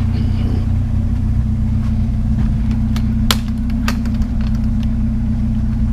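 Vehicle engine idling with a steady low hum, with a few sharp clicks or snips about halfway through.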